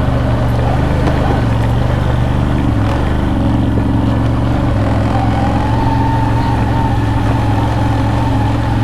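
CFMoto CFORCE 1000 Overland ATV's V-twin engine running steadily at low trail speed. A faint high whine joins in about five seconds in.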